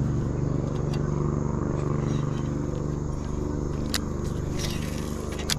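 An engine running steadily at an even pitch, easing off slightly, with two sharp clicks near the end.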